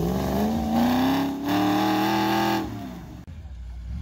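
Land Rover-based trials vehicle's engine revving hard under load as it climbs a muddy bank. The pitch rises steadily, dips for a moment, holds high, then falls away as the throttle is lifted about three quarters of the way through.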